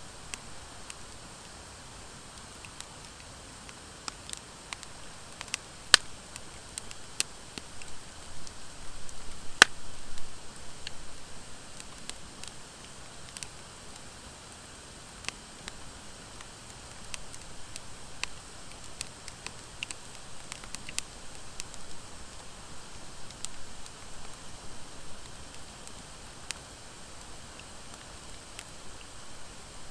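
Wood fire of driftwood and dry hardwood logs burning in a fire pit: a steady hiss with scattered sharp crackles and pops. The two loudest pops come about 6 and 10 seconds in, amid a busier run of crackling.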